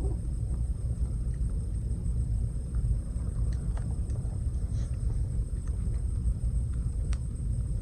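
Wood campfire crackling, with scattered sharp pops and a short hiss about five seconds in, over a steady low rumble.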